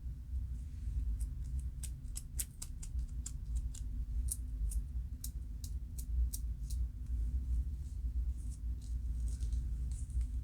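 Scalp being scratched to loosen dandruff: a run of short, crisp scratching clicks, about three a second for the first six seconds and sparser after, over a steady low hum.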